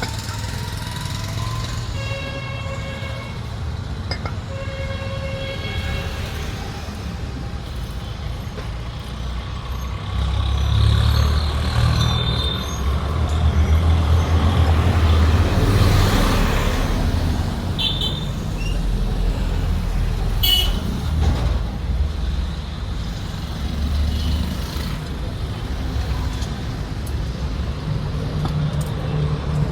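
Road traffic with a steady low engine rumble; a vehicle horn toots twice in the first few seconds, and a heavy vehicle's engine grows louder for several seconds from about ten seconds in.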